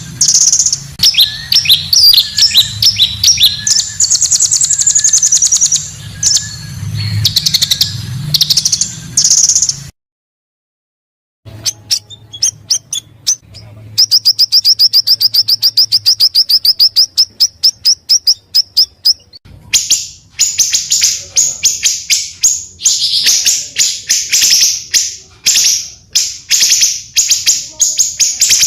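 Small songbirds singing in a chain of edited recordings: quick chirps and varied notes over a low hum, a brief cut to silence, then one long, even, rapid trill, then dense loud chirping.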